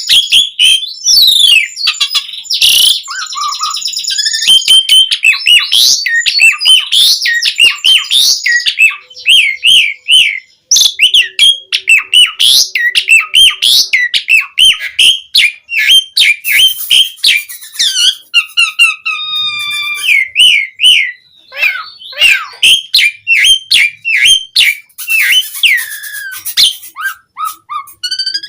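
Asian pied starling in full song: a loud, fast, varied stream of whistles, chatters and squeaky notes with barely a pause.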